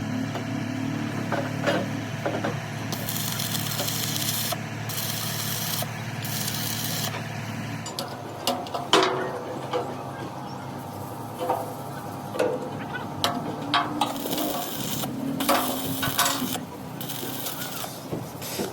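Steel fabrication workshop noise: a machine hums steadily with several bursts of hiss. About eight seconds in, the hum stops and scattered metal knocks follow, each with a short ring.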